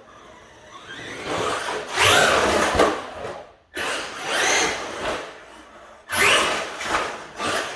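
First-generation Traxxas E-Revo RC truck with its stock Castle Mamba Monster brushless motor on 6S, driven in three hard throttle bursts. Each burst is a loud whine that climbs in pitch and then cuts off sharply when the throttle is let go.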